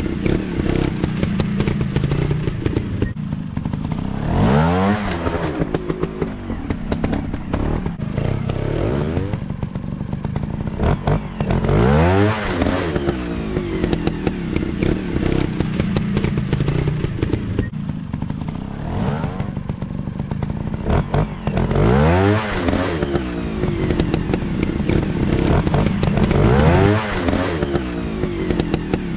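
Dirt bike engines running, revving hard about four times with sharp rises in pitch between stretches of lower, uneven throttle.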